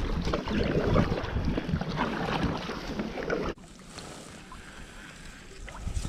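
Wind noise on the microphone with water lapping at a fishing kayak. About three and a half seconds in, the sound drops abruptly to a quieter hiss with a few small clicks.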